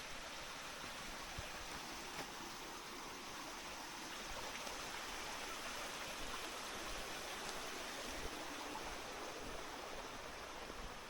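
Steady rush of water, an even, unbroken noise that stops abruptly near the end.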